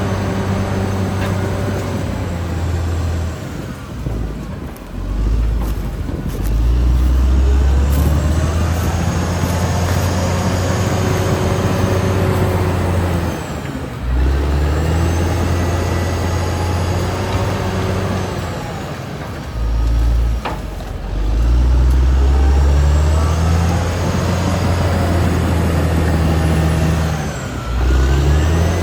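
Caterpillar D6R XL bulldozer's diesel engine working under load. Its pitch drops and climbs back about four times as it eases off and picks up again.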